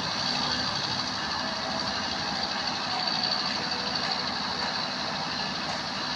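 Steady running noise of a passing vehicle, with a continuous high hiss over a spread of lower noise.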